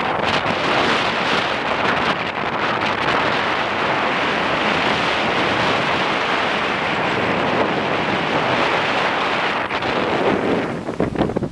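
Strong wind blowing hard across the microphone, a dense, steady rushing noise that turns choppy and gusty near the end.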